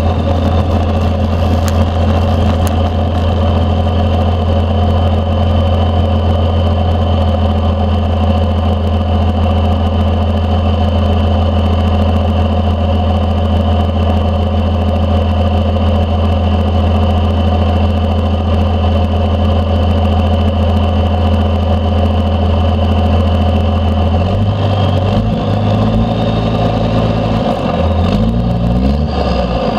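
1992 Dodge D350's 12-valve Cummins 5.9 litre inline-six diesel, straight-piped through a 5-inch stack, running at steady revs with a thin steady turbo whistle over the engine note. Over the last few seconds the whistle fades and the engine pitch wavers up and down as the revs change.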